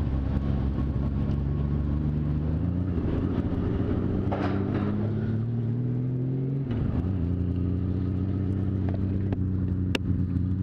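Motorcycle engine pulling away under acceleration. Its pitch rises steadily, drops sharply at a gear change about two-thirds of the way through, then holds steady in the next gear.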